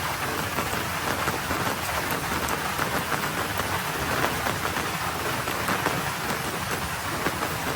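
Rain falling on a road: a steady, even hiss of many small drop impacts.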